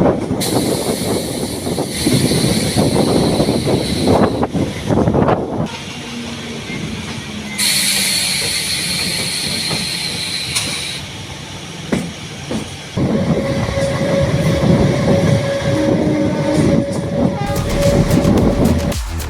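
MEMU electric multiple-unit train running on the rails, a dense rumbling rattle whose character changes abruptly several times. Over its last few seconds a long steady tone is held.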